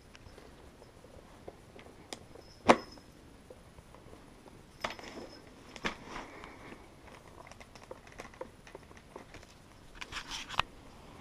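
Plastic GoPro mount parts being handled and clicked together: scattered clicks and light rustling, with one sharp snap a little under three seconds in and a quick run of clicks near the end, as the quick-release buckle is slid into the helmet's curved adhesive mount.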